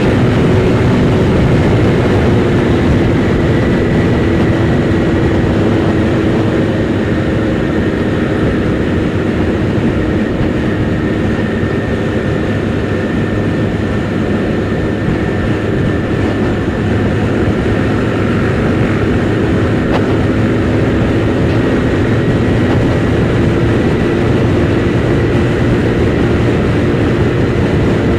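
Kymco Super 8 scooter engine running steadily on the move, heard through a camera inside the rider's helmet, with wind rush over the helmet.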